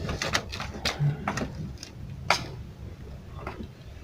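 Irregular sharp clicks and light knocks of small hard objects being handled, a dozen or so, with one louder click a little past halfway.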